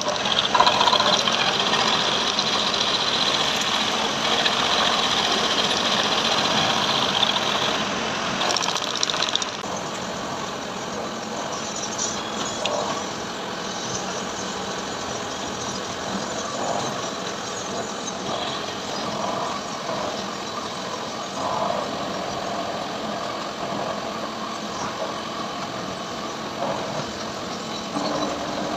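Heavy CNC machine running in a machine shop, a steady mechanical noise. A high hissing cutting sound lasts about the first nine seconds, then stops, leaving a lower, steadier machine noise with occasional small knocks.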